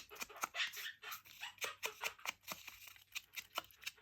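Paper and craft materials being handled at a table: light rustling with many irregular small taps and clicks.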